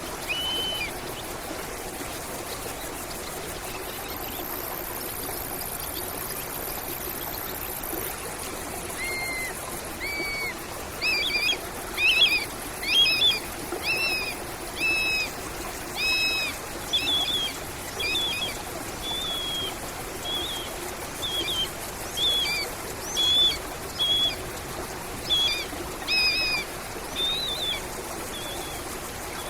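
Stream water running steadily, with a bird calling over it: one short call near the start, then from about a third of the way in a long series of short whistled notes, about one a second, that are louder than the water.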